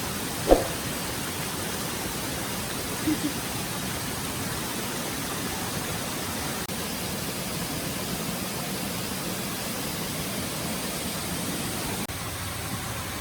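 Steady rushing of a forest stream, with one sharp knock about half a second in and two small knocks a little after three seconds.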